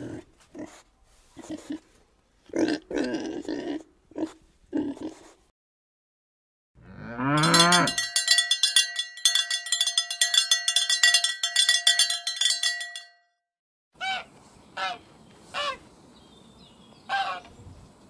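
A run of farm-animal sounds. First pigs grunt in short bursts. Then comes a low cow call rising in pitch, and a cowbell rings busily for about five seconds. Near the end, greylag geese give four short honks.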